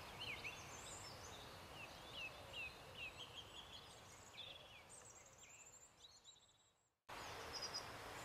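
Faint birdsong over a steady outdoor hiss: many short, quick chirping notes that fade out about six seconds in. After a moment of silence the hiss alone returns.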